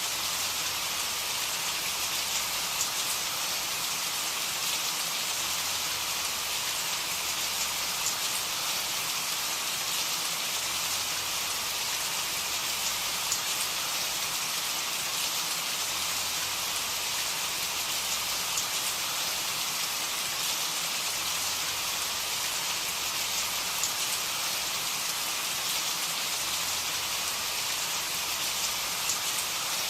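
Steady rain falling, an even hiss with faint scattered drop ticks on a surface.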